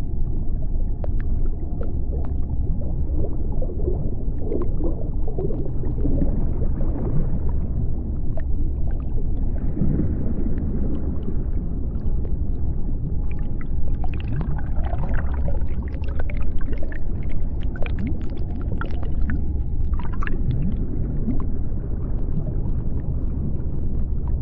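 Underwater sea-floor ambience: a steady low rumble with many scattered sharp clicks and short calls that glide up and down in pitch, thickest around the middle.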